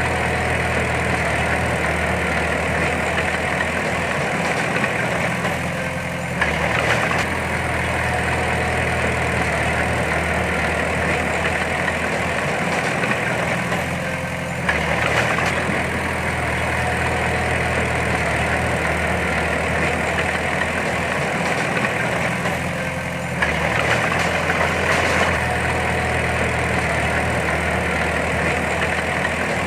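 Heavy diesel engine of an earthmoving machine running steadily, its note shifting and briefly getting louder about every eight or nine seconds, three times.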